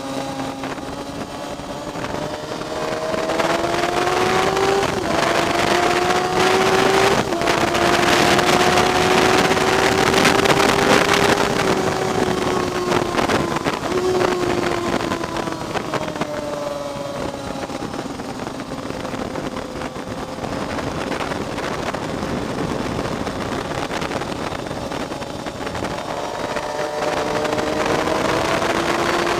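Onboard motorcycle engine on track with wind rushing past. The engine revs climb with quick upshifts about five and seven seconds in, hold high on a straight, then drop through downshifts into a slower stretch before rising again near the end.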